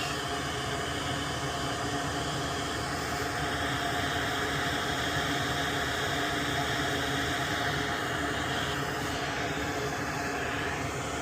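Steady rushing hiss of a running fan, with a faint even hum beneath it.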